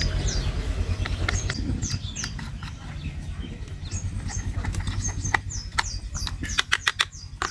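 Screwdriver driving screws into a plastic toy racing car: scattered small clicks and scrapes, several in quick succession near the end, over a steady low hum. Birds chirp in the background throughout with short falling calls.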